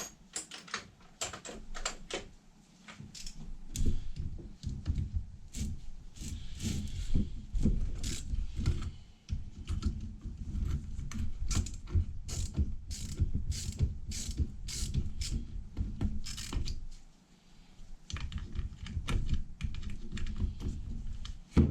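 Hand tool ratcheting in quick runs of clicks while fasteners are worked loose on a Ford 5.0 starter motor, with metal parts knocking between runs and a short pause near the end.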